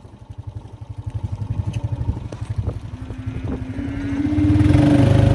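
A vehicle engine running with a rapid low throb, growing steadily louder as it comes closer, with a steady whine joining in about halfway through.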